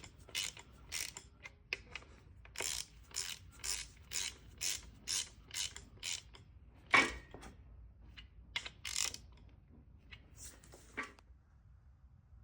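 Hand socket ratchet clicking in short repeated strokes, about two a second, as bolts are run down during engine reassembly; it stops near the end.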